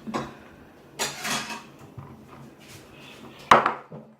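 Food being mixed in a bowl: a rustling scrape about a second in and one sharp knock of a utensil or bowl near the end.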